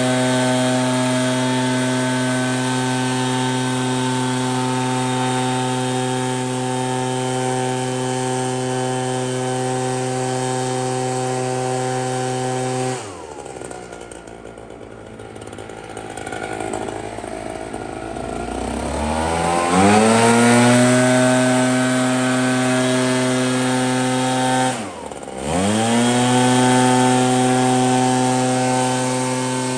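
Echo PB-8010T backpack blower's two-stroke engine running at full throttle while blowing snow. It drops to idle about thirteen seconds in, revs back up with a rising whine around twenty seconds, and dips briefly once more near twenty-five seconds before returning to full speed.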